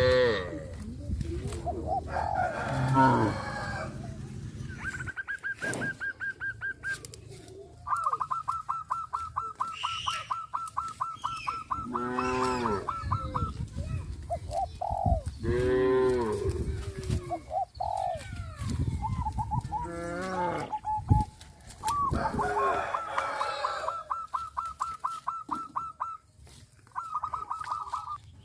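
Farmyard animal calls: cattle mooing several times, mixed with chickens clucking and a rapid, evenly repeated high note that runs on for several seconds at a time.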